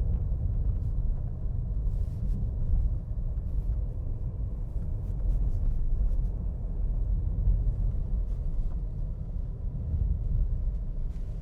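Steady low rumble of a moving vehicle, without clear engine tones or distinct knocks.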